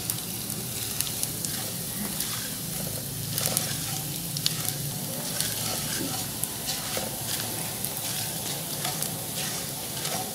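Small pieces of edible gum (gond) sizzling in hot ghee in a non-stick kadhai on medium flame, with scattered small crackles, as a silicone spatula stirs them while they fry to light golden.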